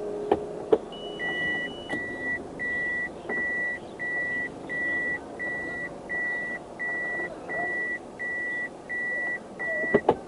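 A car's warning beeper sounding a steady series of about thirteen short, equal, high beeps, roughly one and a half a second. A couple of clicks come just before the beeping starts, and a knock comes near the end.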